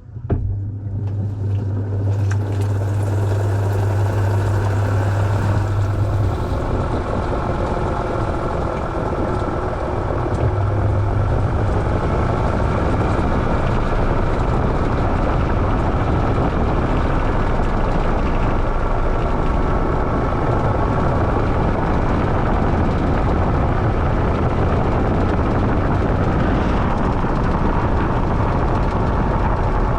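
Washing machine running loudly and steadily, a noise that starts abruptly at the outset, with a low hum for the first few seconds and again briefly later.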